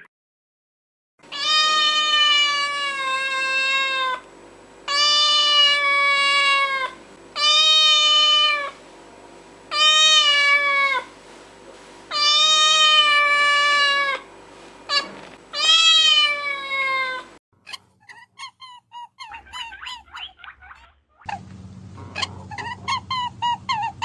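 A cat meowing: six long, drawn-out meows, each lasting one to three seconds, with short gaps between them. After the meows stop, a flurry of short, high chirps follows.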